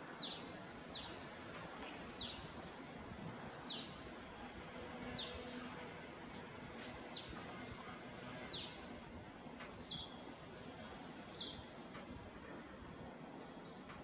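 A bird calling: about ten short, high notes, each dropping sharply in pitch, repeated at intervals of roughly a second or more, over a faint steady hiss.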